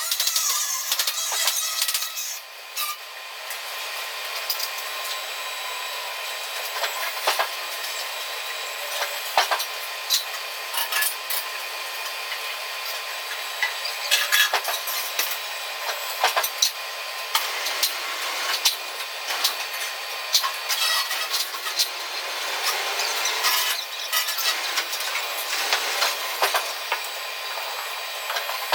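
Steel fabrication shop noise: a steady hiss broken by frequent, irregular sharp knocks and clanks of metal work on steel truck-bed parts.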